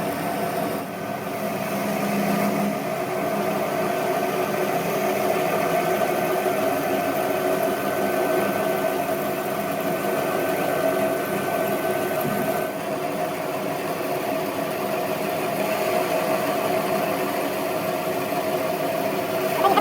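A workshop machine running steadily with an even hum; a thin high tone in it stops about twelve seconds in.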